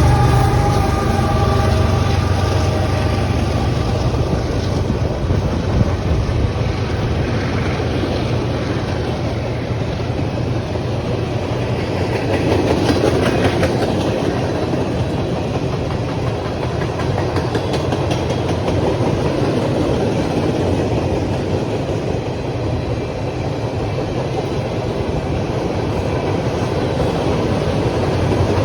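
Train cars rolling past close by: a steady rumble with wheels clacking over the rail joints. A locomotive's engine drone fades out about a second in.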